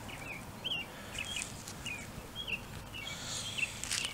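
A small bird chirping over and over in short, repeated chirps, two or three a second. There are a couple of brief rustles from gloved hands working the soil.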